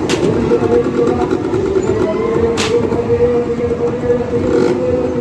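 Motorcycle engine running steadily at idle, a continuous low drone, with three short sharp clicks spread through it.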